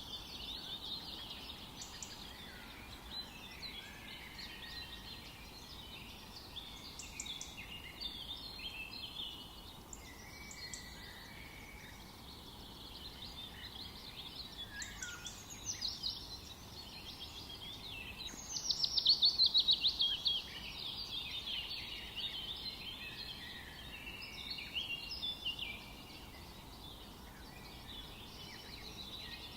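Many songbirds singing at once in a forest, a dense mix of chirps, warbles and trills over a faint steady background hiss. About two-thirds of the way through, one bird gives a loud, rapid trill of repeated notes lasting about two seconds.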